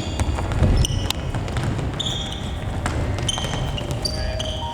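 Futsal play on an indoor sports-hall floor: a ball kicked and bouncing with sharp knocks, and several short high squeaks of indoor shoes on the floor, over the echoing hum of a large hall.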